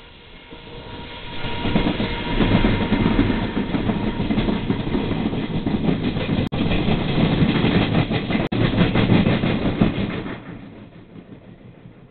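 Passenger train running through a station without stopping, its wheels clattering rhythmically over the rails. The sound grows quickly, stays loud for about nine seconds as the cars pass, then fades away.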